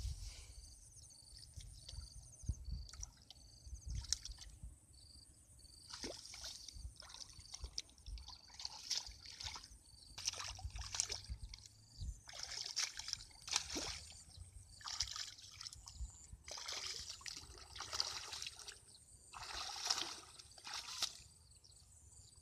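Water sloshing and splashing in irregular bursts, with trickling between them.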